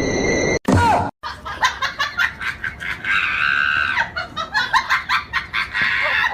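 Backing music cuts off, and after a short gap people laugh in quick, repeated bursts, with a held high-pitched shriek about three seconds in.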